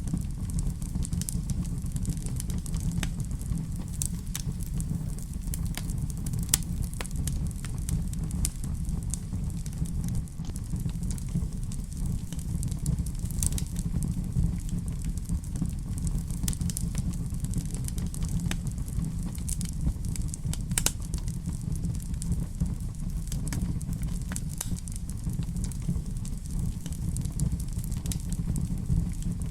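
Wood fire in a fireplace crackling, with irregular sharp pops and snaps scattered over a steady low rumble.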